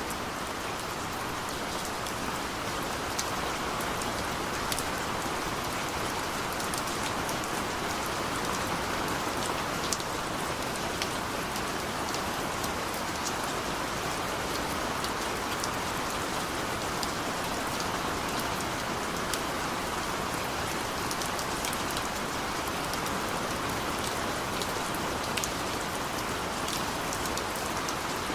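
Steady rain falling, a constant hiss with many small drops ticking sharply on a hard surface.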